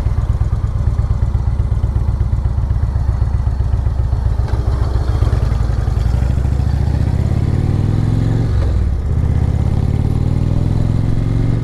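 A vehicle engine runs with a steady low rumble. Its note rises from about six seconds in, dips briefly near nine seconds, and then picks up again, as in a gear change under way.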